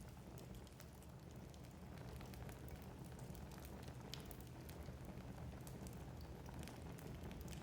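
Wood fire burning in a fireplace, with scattered sharp crackles and small pops over a low steady rumble; one pop about four seconds in stands out above the rest.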